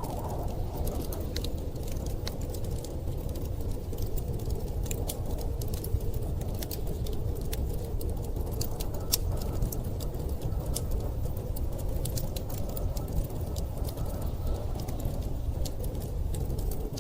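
Wood fire crackling, with frequent irregular sharp pops and ticks, over a steady low rush of storm wind.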